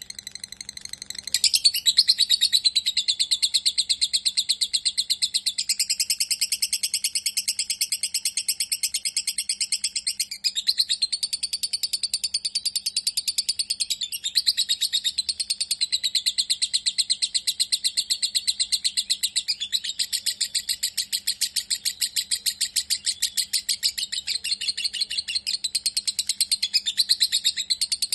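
Lovebird singing a long, unbroken chattering trill of rapid repeated high notes, starting about a second in and running on without a pause: the extended 'ngekek' song that lovebird fanciers breed and train for.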